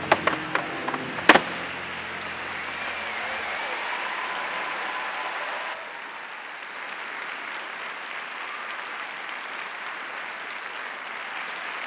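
Tap shoes striking a quick run of crisp taps over music, ending on one loud final stamp just over a second in, then the audience applauding steadily as the music fades out.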